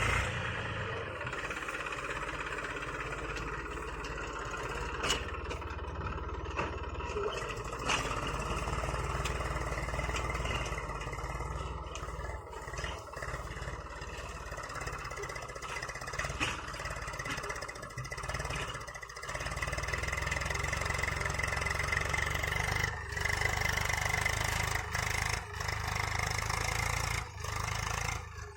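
Eicher 380 tractor's diesel engine running steadily under load, pulling a cultivator in second gear.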